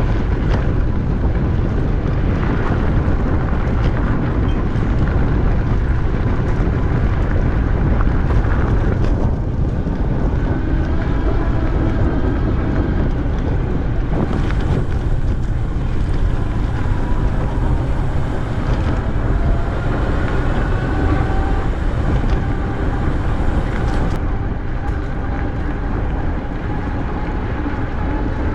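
Wind buffeting the microphone of a camera riding on a moving bicycle: a loud, steady rumbling rush, with a faint whine slowly rising in pitch through the middle.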